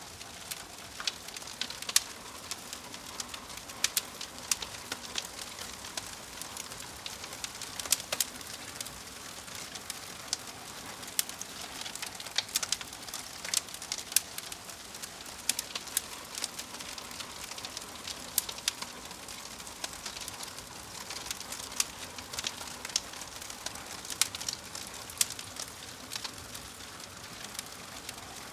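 Logs burning in a fireplace: a steady hiss with irregular sharp crackles and pops, several a second.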